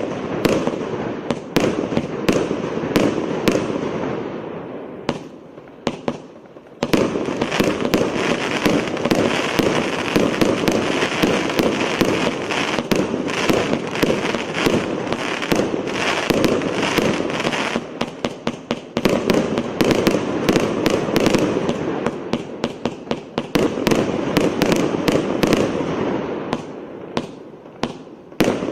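A 600-shot, 1-inch fireworks cake firing in a dense, rapid stream of launch thumps and bursting shots with a crackling haze. It thins out and fades a few seconds in, then comes back full about seven seconds in, and thins out again near the end.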